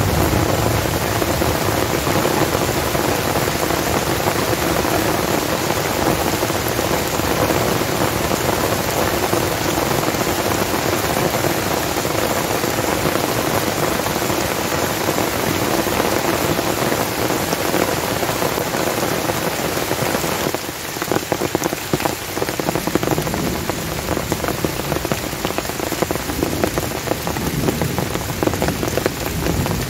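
Heavy rain drumming steadily on a tent's flysheet and tarp. About two-thirds of the way through it turns to a slightly quieter, more scattered patter of separate drops.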